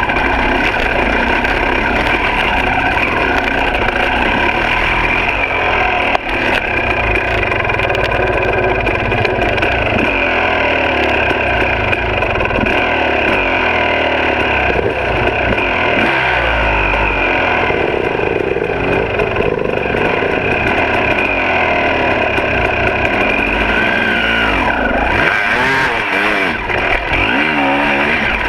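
Two-stroke dirt bike engine running on a trail ride, its pitch rising and falling as the throttle is worked, with the swings quickest near the end.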